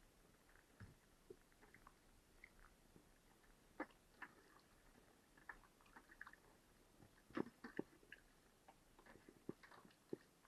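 Near silence broken by faint, irregular small clicks and taps, the loudest a short cluster about seven seconds in.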